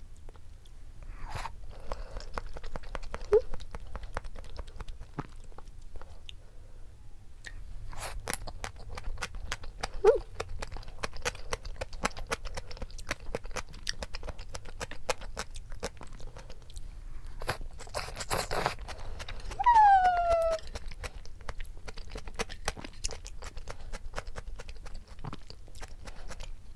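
Close-miked chewing of raw salmon sashimi and crunchy raw onion slices, with many wet mouth clicks and smacks. About two-thirds through there is a short falling 'mm' from the eater, the loudest moment.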